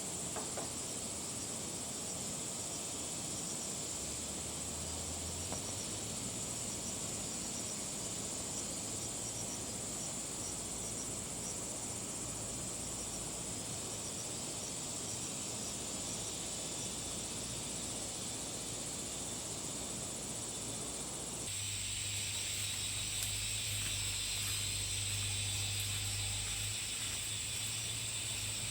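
Insects chirring steadily in a high, unbroken drone. About 21 seconds in, the sound changes abruptly and a louder hiss joins it.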